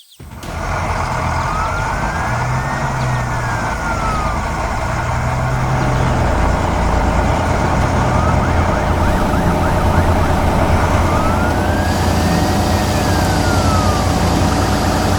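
A siren wailing in slow rising-and-falling sweeps, two full ones about ten seconds apart, over the steady low rumble of a truck engine.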